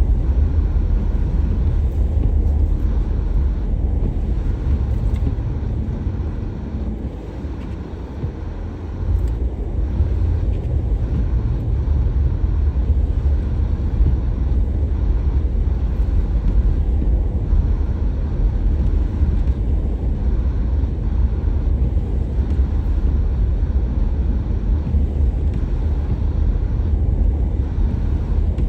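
Car driving: a steady low rumble of engine and road noise, which eases for a couple of seconds about eight seconds in and then comes back up.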